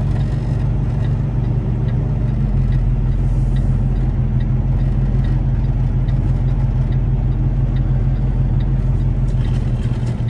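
Semi truck's diesel engine running steadily at low revs, with a light regular tick about every half second.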